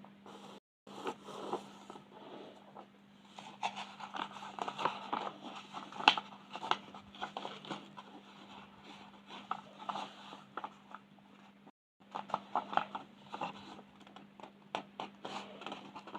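Coloring pencil scratching on paper in quick, short, irregular strokes, with a faint steady hum underneath. The sound cuts out completely twice, for a moment each time.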